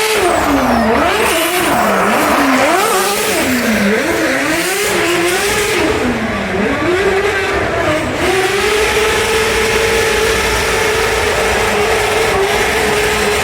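A car engine revved hard and repeatedly, its pitch rising and dropping about once a second. About eight seconds in, the revs are held steady and high.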